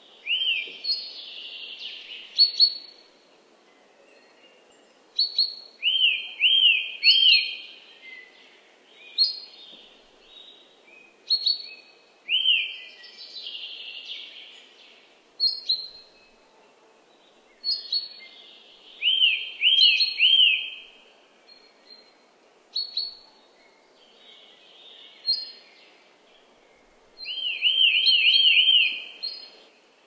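Forest songbirds singing. A short phrase repeats every few seconds: a sharp high note followed by a quick run of two to five arched notes. Faint steady low background noise runs underneath.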